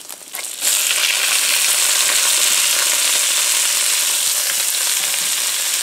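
Sliced red and yellow peppers hitting very hot oil in a wok: a loud sizzle starts suddenly about half a second in and stays steady.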